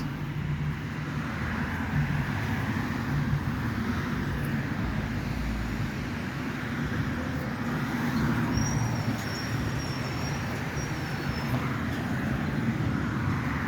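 Road traffic: a steady noise of passing cars. A thin high tone rises above it for about three seconds past the middle.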